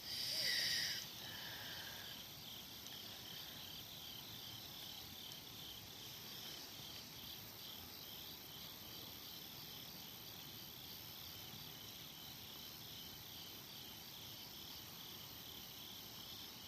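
Night insects, crickets, chirping in a steady, rapidly repeating pulse. A brief, louder high-pitched call stands out in the first second.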